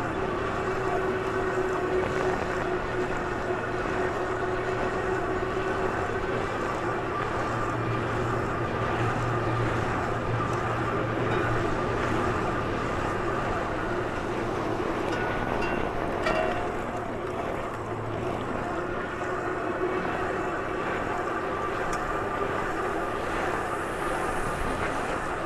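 A bike being ridden: steady rolling noise and wind on the microphone, with a faint hum that drifts slowly up and down in pitch. A few light clicks come about two thirds of the way through.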